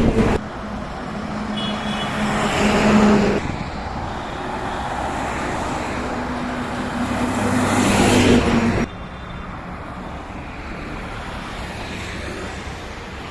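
Heavy truck engines running with traffic noise on a highway, louder twice as trucks pass close: once at the start, then building to a peak about eight seconds in before dropping off suddenly.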